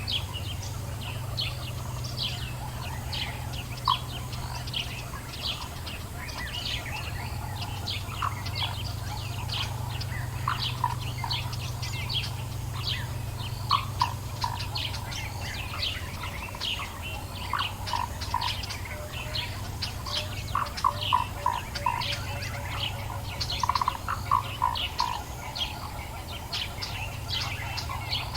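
Dawn chorus of African bush birds: many rapid high chirps overlapping throughout, with lower, quickly repeated notes joining in from about a third of the way through. A steady low hum runs underneath.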